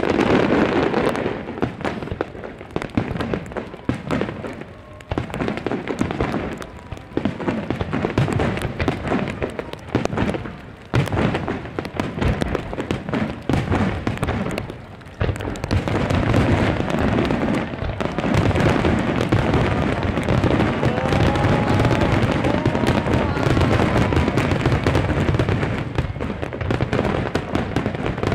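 Aerial fireworks shells bursting with booms and crackle, first as separate bursts, then from about halfway through as a dense, near-continuous barrage.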